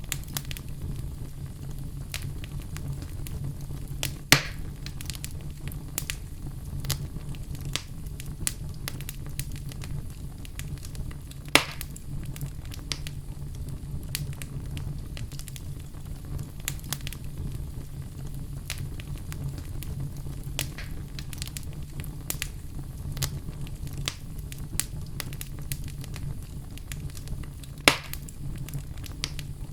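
Log fire crackling in a fireplace: a steady low rumble under frequent small pops and snaps from the burning wood, with three louder sharp pops spread through.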